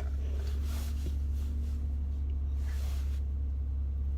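Car engine idling in the cabin while it warms up before pulling off, a steady low hum. Two short rustles come about a second in and about three seconds in.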